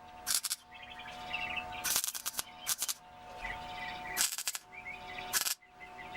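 Welder laying short tack welds on sheet steel: five brief bursts of crackle, each a fraction of a second, spread over several seconds. Birds chirp faintly in the background.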